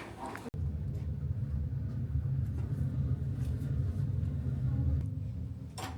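Steady low rumble of a moving vehicle heard from inside, starting abruptly about half a second in.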